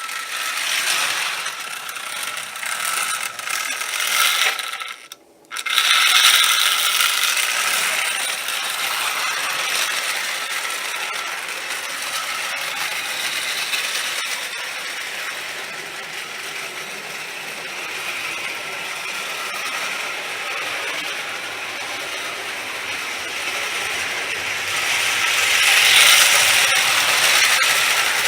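Marx No. 999 toy steam locomotive running on O-gauge tin track with its cars: a steady whirring of the motor's gears and clatter of wheels on the rails. The sound cuts out briefly about five seconds in, then resumes and grows louder near the end.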